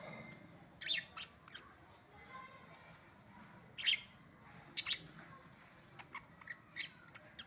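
Budgerigars calling: a handful of short, sharp squawks and chirps spread through, with soft chatter between them.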